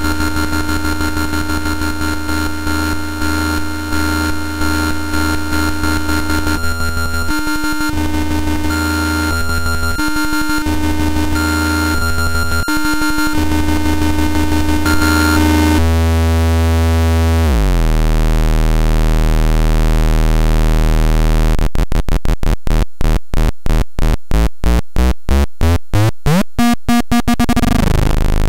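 Homemade CMOS 4093 NAND-gate synthesizer putting out harsh square-wave buzzing and drones. A low drone gates on and off a few times, the pitch slides down, then the sound breaks into a fast stuttering pulse with a rising sweep near the end.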